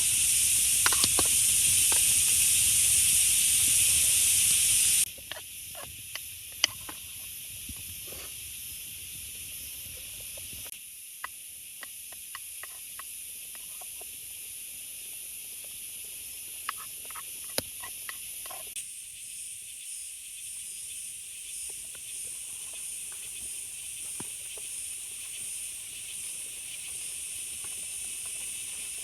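Steady hiss of heavy rain with scattered sharp drip-like ticks; it is louder for the first five seconds, then drops abruptly to a softer steady patter.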